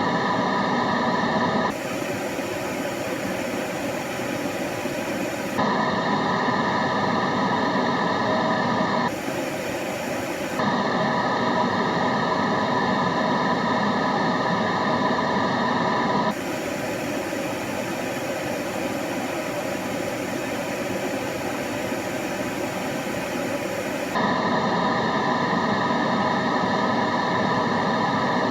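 A steady white-noise track for studying: a continuous even hiss. It switches suddenly between two slightly different textures, one a little louder and brighter than the other, about every few seconds.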